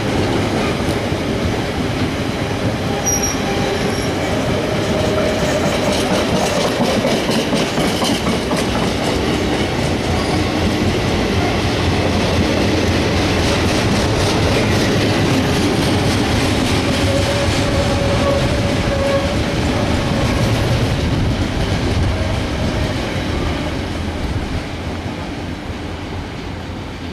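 Intermodal container freight train's wagons rolling past: steady clickety-clack of wheels over the rail joints, with a few brief wheel squeals. The noise fades over the last few seconds as the train draws away.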